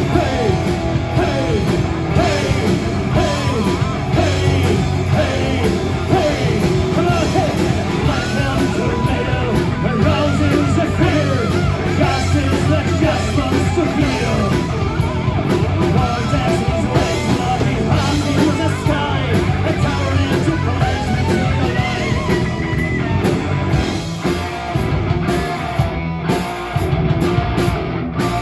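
Live rock band playing at full volume: distorted electric guitars, bass and drum kit, with a singer's voice over them.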